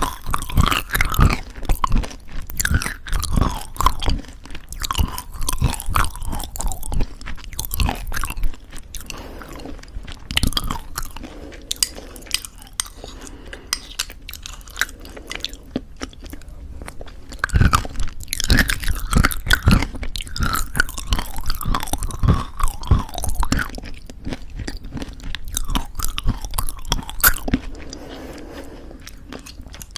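Close-miked chewing of crunchy homemade granola in thick yogurt: crisp crunches come thick and fast for the first several seconds and again from about 18 to 27 seconds in, with softer chewing between.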